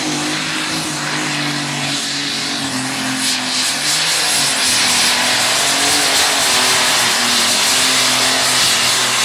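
Light Modified pulling tractor running at full power down the track during a pull. Its engine note holds steady with small steps in pitch and grows louder about four seconds in.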